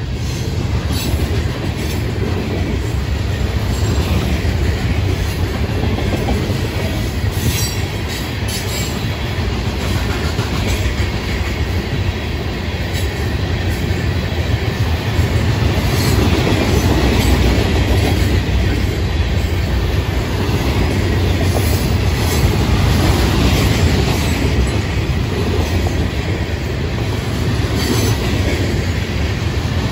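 Florida East Coast Railway freight train of hopper cars and boxcars rolling steadily past at close range, a continuous rumble of wheels on rail with a sharp click now and then.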